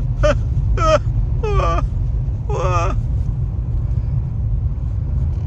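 Steady low rumble of a car driving on a snow-covered highway, heard inside the cabin. A man's voice is heard in short stretches during the first three seconds.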